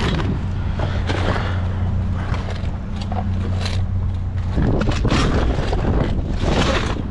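A vehicle engine running steadily with a low hum, under handling noises, with two louder rustling bursts in the second half.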